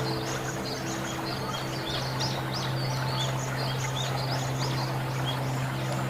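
Birds chirping with many short, high, repeated calls throughout, over a steady low hum of held tones and an even background hiss.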